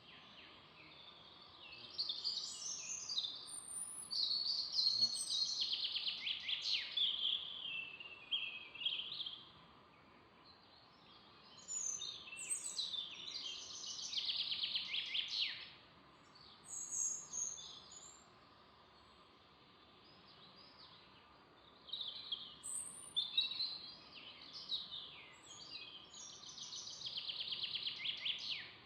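Songbirds singing in a forest: chirping phrases and fast trills come in three bouts, with quieter pauses between them, over a faint steady background hiss.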